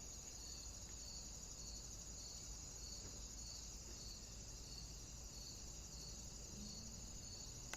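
Faint, steady high-pitched insect trill outdoors, with a softer chirp repeating about twice a second.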